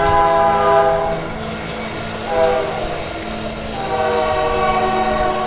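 Locomotive air horn sounding a chord in three blasts: a long one ending about a second in, a short one in the middle, then another long one. This is the long-short-long close of a grade-crossing warning.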